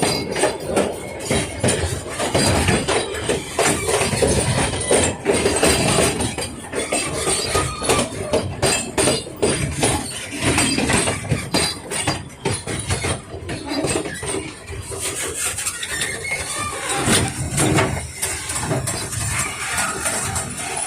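Puffing Billy narrow-gauge steam train running on the track, with a steady clatter of knocks from the wheels and carriages and the wheels squealing.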